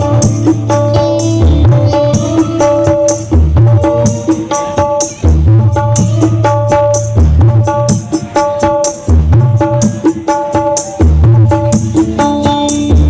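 Loud music with heavy bass and a hand-drum rhythm, played through large parade sound systems.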